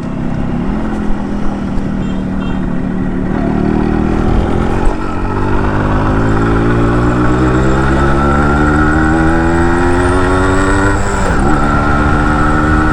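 Yamaha RX 100's two-stroke single-cylinder engine pulling under way, its pitch climbing steadily as the bike gathers speed, with a brief drop at a gear change about eleven seconds in before it climbs again.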